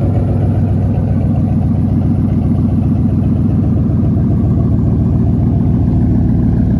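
Ford 5.4L Triton V8 of an F-150 running steadily through an aftermarket exhaust of 2.5-inch pipes and 5-inch tips, a loud, even, deep exhaust rumble at a steady idle.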